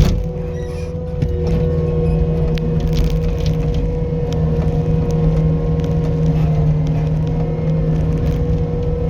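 Skid steer's diesel engine running steadily at working speed, with scattered clanks and rattles from the machine.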